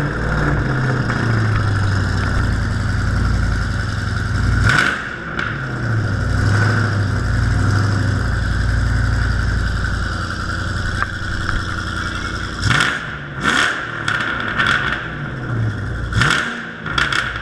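Ford Mustang with a straight-piped exhaust idling, blipped once about five seconds in, then revved in a quick run of sharp throttle blips from about thirteen seconds on.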